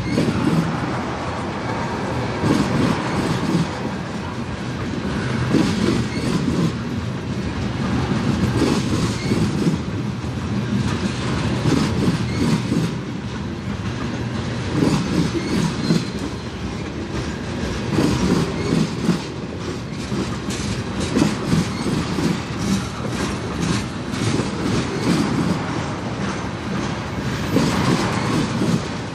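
Freight train cars rolling past, their wheels clicking steadily over the rail joints.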